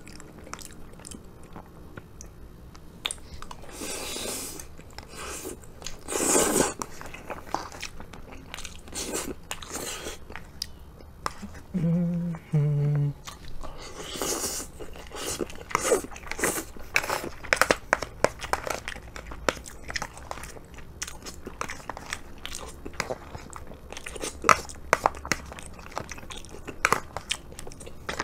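Close-miked eating of beef curry and rice: wet chewing and smacking with a few noisy slurps, and many light clicks and scrapes of a plastic spoon and chopsticks against a plastic bento tray. Two short hummed "mm" sounds about twelve seconds in.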